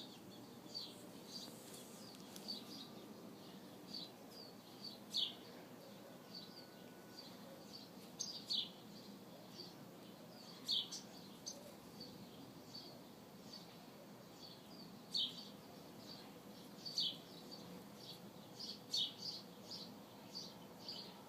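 Small birds chirping: short, high chirps repeated irregularly throughout, some louder than others, over faint background noise.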